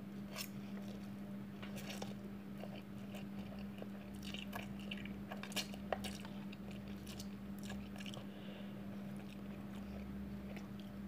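Faint chewing of Indomie goreng instant fried noodles, eaten with a fork from a plastic tub, with scattered light clicks over a steady low hum.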